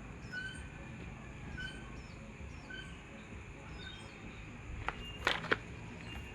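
A small bird chirping repeatedly with short high notes, over a steady background hum. A few sharp clicks or knocks come about five seconds in.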